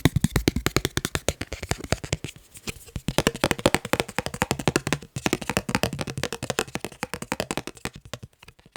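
Fast, rhythmic tapping on the items of a fan-club membership kit, many taps a second, thinning out and stopping near the end.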